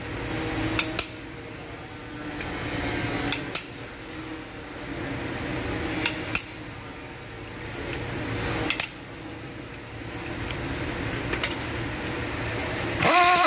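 Occasional sharp metal clinks of hand tools and engine parts over a steady fan hum, with a brief pitched sound near the end.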